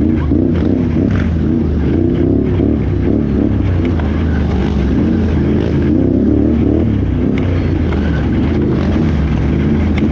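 Can-Am Renegade X xc 1000R ATV's V-twin engine running hard under race load, its pitch rising and falling over and over as the throttle is worked, with scattered short knocks.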